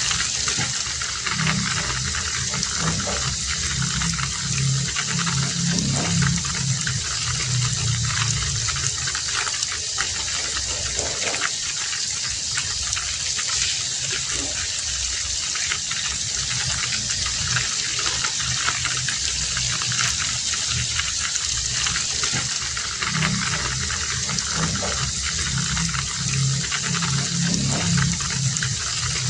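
Heavy rain falling steadily, an even hiss. A low hum rises under it twice, for several seconds each time.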